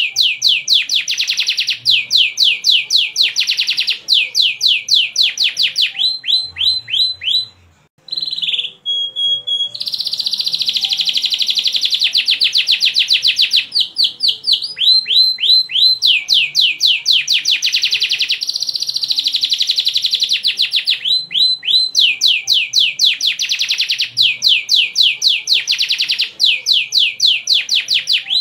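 A canary singing long, fast trills of rapidly repeated chirping notes, with a short break about eight seconds in.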